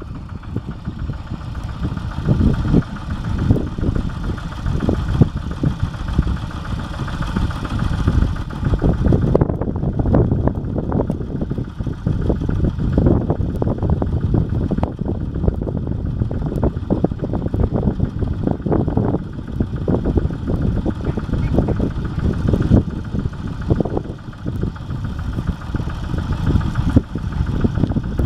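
Kubota RD85 single-cylinder diesel engine of a two-wheel hand tractor running steadily as it works levelling mud, a fast even train of firing pulses.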